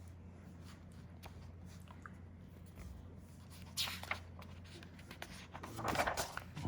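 Picture-book pages being handled and turned: faint taps, then two short papery rustles, the second longer, over a low steady hum.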